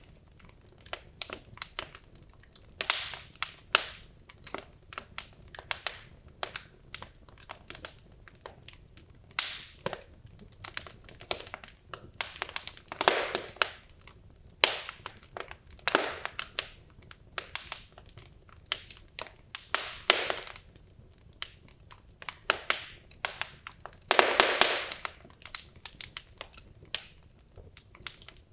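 Wood logs burning in a fireplace, crackling with irregular sharp pops, and a few louder clusters of crackles that each last about a second.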